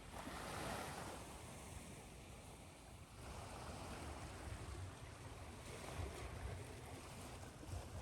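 Recorded ocean waves washing onto a shore, blended with steady white noise; the wash swells about a second in and again from about three seconds on.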